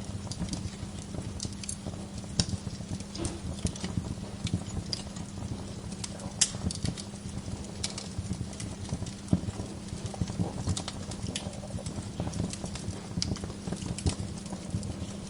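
Wood fire crackling: irregular sharp pops and snaps over a steady low rumble of burning logs, with a few louder pops standing out.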